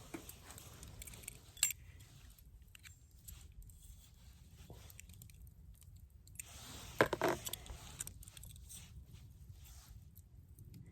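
Light metallic clinking and rattling from camp cookware and utensils being handled, with a sharp click about a second and a half in and a louder clatter about seven seconds in.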